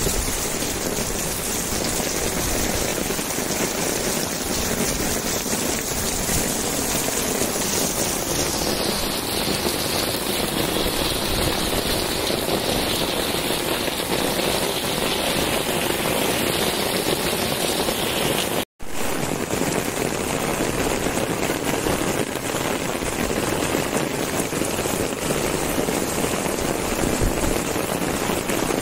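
Heavy monsoon rain pouring down steadily in a constant hiss. It cuts out for a split second about two-thirds of the way through.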